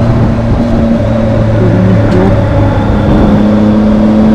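Triumph motorcycle engine running steadily at highway speed, about 100 to 120 km/h, with wind rushing over the helmet microphone.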